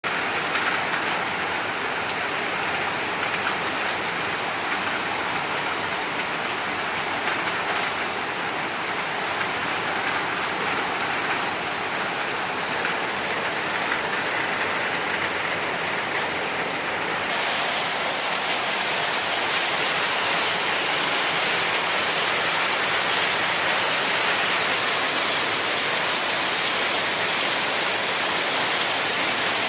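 Steady rain falling, a continuous even hiss that gets louder and brighter about two-thirds of the way through.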